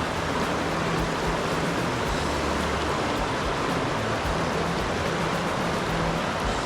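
Rushing water of a forest river: a steady, even hiss of flowing water.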